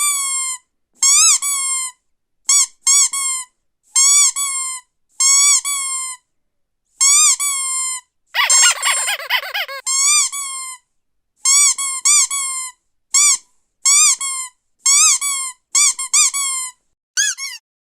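Squeaky dog toy squeezed over and over: short high squeaks, often in quick pairs, each rising and falling in pitch, with one longer, rougher squeal a little before halfway.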